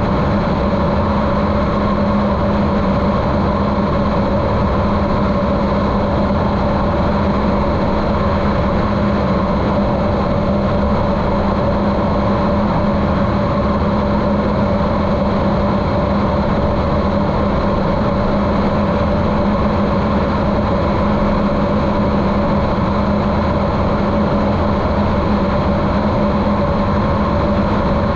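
Continental O-200 four-cylinder engine of a Cessna 150L running steadily with propeller drone, heard a little muffled through a GoPro's waterproof case.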